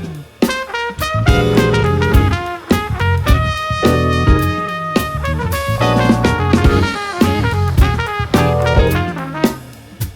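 Live band playing an instrumental passage of a jazz/funk tune: brass horns holding and moving through notes over drum kit and bass.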